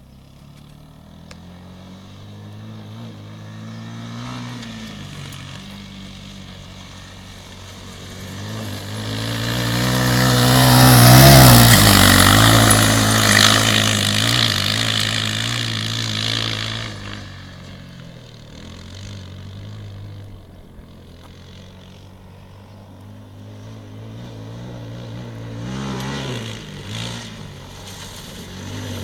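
Motocross dirt bike engine revving as the bike rides the course. It grows louder, passes closest about eleven seconds in, and fades away. Engine noise builds again near the end.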